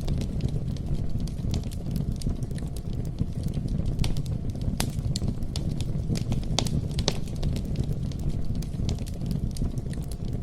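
Campfire burning: a steady low rush with irregular sharp crackles and pops.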